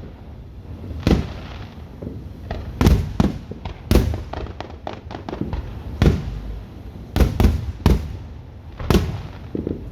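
Fireworks going off: an irregular run of sharp booms and pops, about nine bigger bangs spread over ten seconds, with a spell of fainter crackling in the middle.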